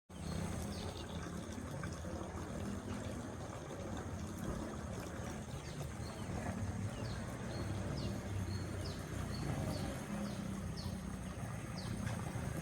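Rural outdoor ambience: a steady low rumble under a small bird's short, high chirps, each dropping in pitch, repeating about once or twice a second from around the middle on.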